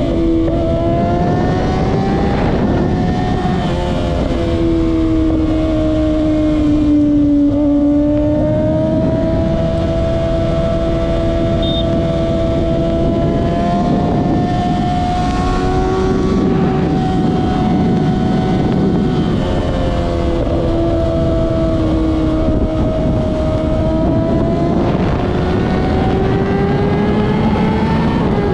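Kawasaki ZX-6R inline-four sport bike engine running under way, its pitch drifting slowly up and down as the throttle changes, with no sharp revs.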